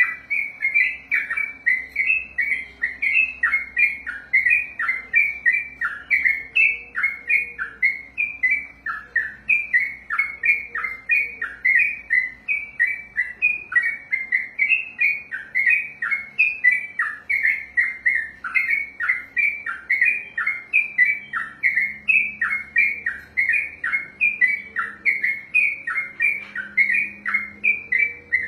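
Yellow-vented bulbul (trucukan) singing a long unbroken run of repeated notes, about two to three a second, each note dropping in pitch.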